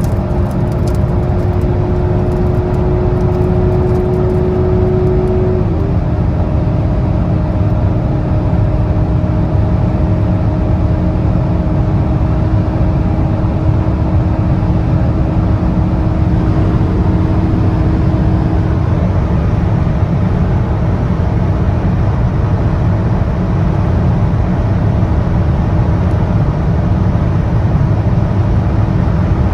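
The 1.7-litre turbocharged four-cylinder of an Alfa Romeo Giulietta Veloce 1750 TBI pulling hard at high speed, under dense low wind and road noise. Its pitch rises slowly, drops once about six seconds in, and then climbs slowly again.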